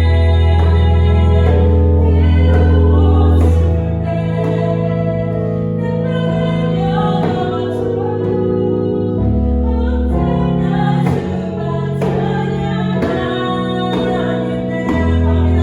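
A worship song sung with piano accompaniment and djembe: sustained sung notes over piano chords, with regular hand-drum strikes.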